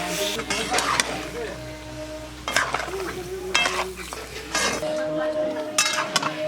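Pig-head meat sizzling as it fries in a pan, with a metal ladle stirring and scraping against the pan in several separate strokes.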